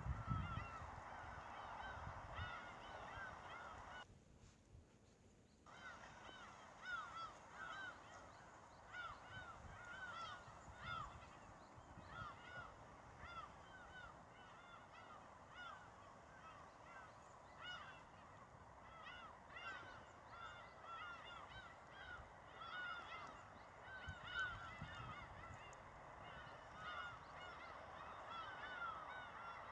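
Faint chorus of many animals giving short honking calls that overlap and repeat several times a second. The sound drops away for about a second and a half, some four seconds in.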